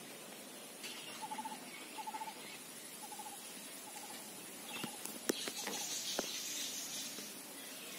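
A bird repeating a short, rattling note about once a second, with a few sharp clicks about five seconds in.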